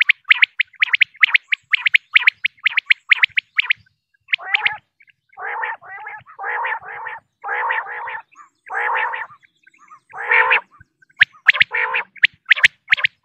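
Female common quail calling. It gives a fast series of short sharp chirps, then a run of longer rasping notes about a second apart, and sharp chirps again near the end.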